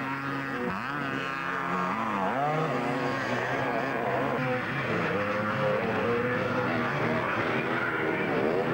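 Several vintage twinshock 250cc two-stroke motocross bikes racing, their engine notes rising and falling as riders open and shut the throttle, with more than one bike heard at once.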